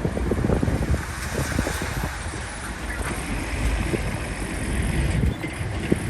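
Heavy diesel earthmoving machine working, a steady low engine rumble with irregular knocks and clanks, and wind buffeting the microphone.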